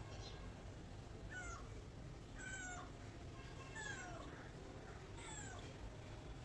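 Domestic cat meowing about five times, short calls that each slide down in pitch, roughly a second apart.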